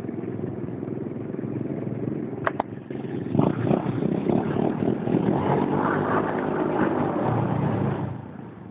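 Pit bike engine revving during a burnout. It grows louder about three seconds in and falls away near the end.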